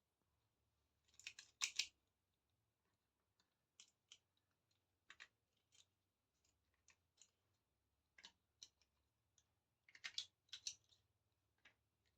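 Near silence with faint, scattered clicks and taps of small miniature toy kitchen pieces being handled, in a few brief clusters.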